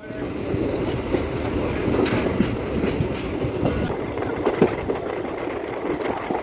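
Passenger train coaches running on the track, heard from an open coach doorway: a steady wheel-and-rail rumble with scattered clicks.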